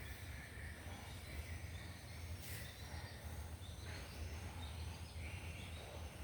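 Background noise over a steady low hum, with a few faint short chirps and a brief rushing noise about two and a half seconds in.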